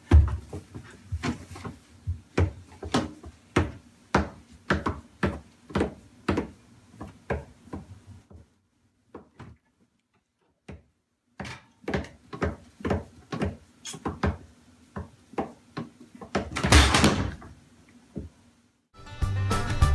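A run of short knocks and taps, about two a second, with a pause of a few seconds in the middle, then a longer scraping rustle near the end.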